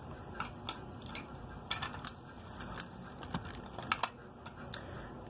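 Handling noise: irregular light clicks and taps of small hard plastic objects being moved and set down, over a faint background hiss.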